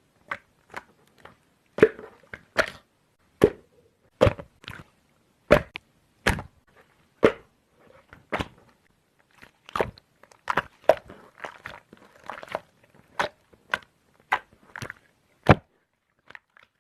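Slime being squeezed and poked by hand, giving irregular sharp pops and clicks about once or twice a second, with softer squishing between.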